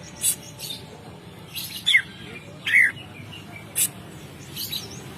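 Cucak ijo (green leafbird) calling: about five short, sharp, loud notes spaced roughly a second apart, used as a lure call to prompt another cucak ijo to sing. A faint, fast high twitter runs behind them.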